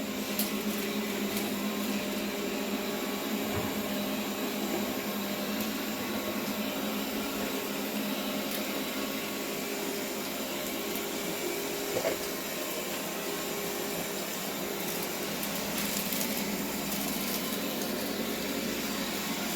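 bObsweep PetHair SLAM robot vacuum running steadily as it cleans a kitchen floor, a continuous suction-motor hum with a few faint clicks and knocks as it moves along.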